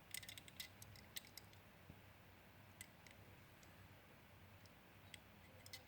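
Near silence with faint, scattered light clicks from a small diecast model car being handled: a quick cluster in the first second and a half, then a few single clicks.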